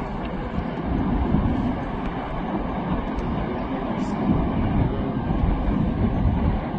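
Floodwater rushing in a steady, low, rumbling wash of noise with no breaks.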